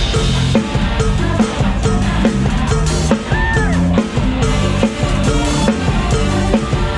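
A live band plays upbeat music, with a drum kit keeping a steady, driving beat over bass notes. A short rising-then-falling melodic note stands out about halfway through.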